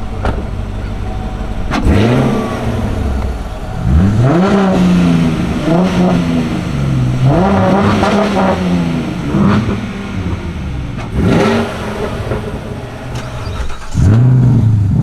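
Car engines accelerating hard several times over a steady cruising hum, each burst revving up in pitch and dropping back as the gear changes.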